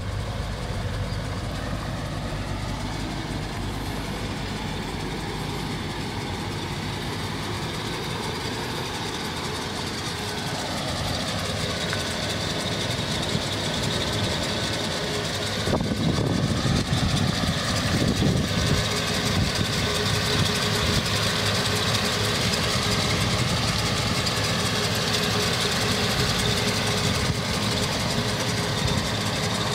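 1978 Lincoln Mark V Diamond Jubilee's V8 engine idling steadily, growing louder about halfway through.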